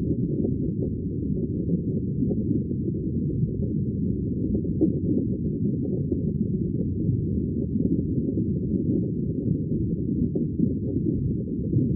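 Aquarium water bubbling continuously, a dense low, muffled stream of tiny pops and gurgles with no high sounds.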